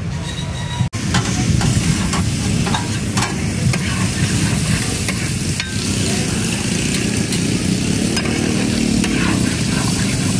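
Mutton liver pieces sizzling in hot oil on a large steel tawa, with metal spatulas scraping and clicking against the pan as they are stirred. A brief break about a second in.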